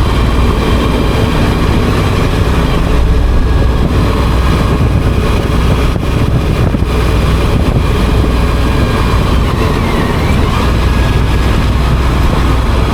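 Motorcycle engine running at a steady pace while riding, with wind rushing over the microphone.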